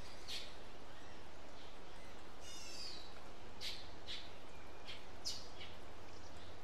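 Birds chirping: a scattering of short, high calls, one of them falling in pitch, over a steady low background hum.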